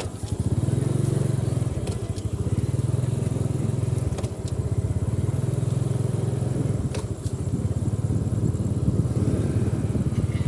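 An engine running steadily close by, with a fast low pulse and a few sharp clicks over it.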